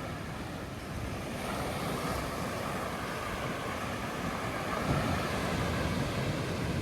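Ocean surf washing in at a beach, a steady rush of water that swells about a second in, with low wind rumble on the microphone.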